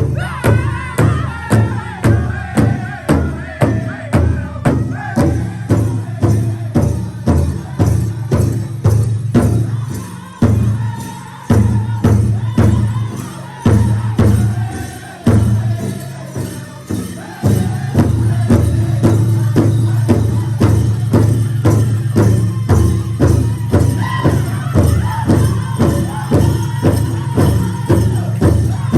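Powwow drum group playing a dance song: several drummers strike a large shared drum in a steady beat while high voices sing over it. The beat breaks off briefly a few times in the middle before carrying on.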